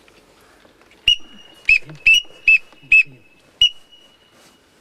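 Duck whistle call blown in six short, sharp whistled notes, the last one held longer, to draw in ducks.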